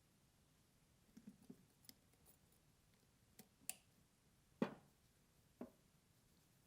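Mostly quiet, with a few faint clicks and then two soft knocks about a second apart, from small gun parts being handled and set down on a workbench.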